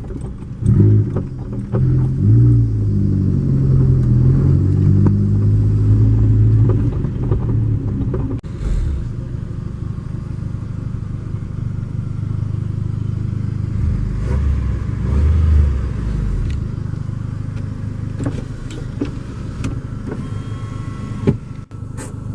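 Car engine running with a low rumble, its pitch climbing and shifting during the first several seconds as it revs, then settling to a steadier drone with a couple of brief swells later.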